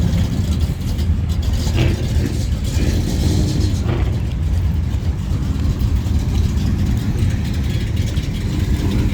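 Car engine running with a steady, loud low rumble from its exhaust.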